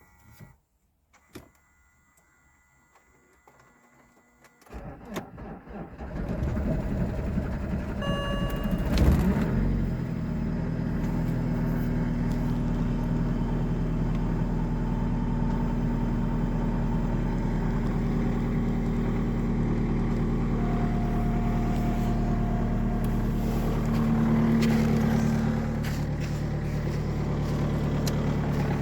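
BMW 320d E90's M47N four-cylinder diesel cold-started at -19 °C after standing overnight: quiet at first, then the starter cranks about five seconds in, the engine catches and rises in speed for a few seconds, and it settles into a steady cold idle. A short dashboard chime sounds about eight seconds in.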